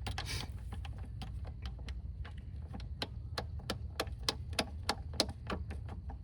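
Light, regular clicking, about three clicks a second, over a steady low hum.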